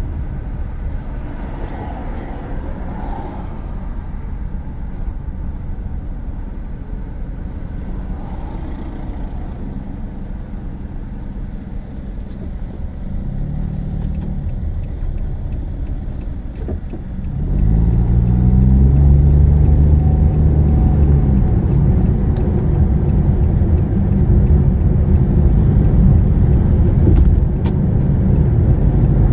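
Car engine and road noise heard from inside the cabin while driving. About two-thirds of the way through, the engine note rises as the car accelerates and the sound gets louder, then holds steady.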